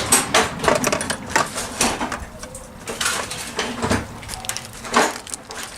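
Metal hand tools clinking and clattering, a quick irregular run of sharp clinks, as wrenches are sorted through in a toolbox.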